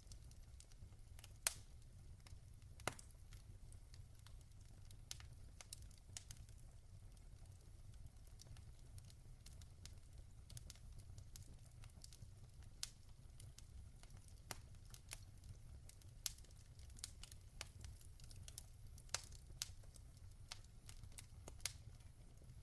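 Logs burning in a fireplace, crackling with irregular sharp pops and snaps, the two loudest early on, over a faint steady low rumble.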